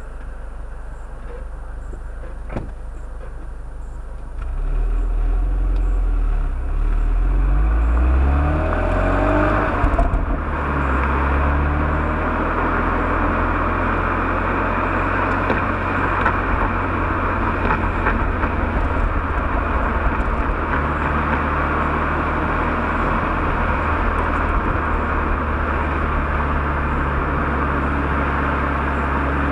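Renault Mégane RS 225's 2.0-litre turbocharged four-cylinder on its factory exhaust, pulling hard under full-throttle acceleration. It runs evenly at first, then about four seconds in it gets louder and climbs in pitch until a break about ten seconds in. After that it runs on steadily under a loud rushing noise.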